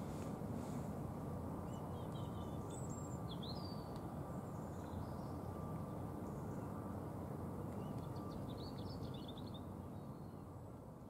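Steady low background rumble of outdoor ambience, easing a little near the end, with small birds chirping briefly a few seconds in and again near the end.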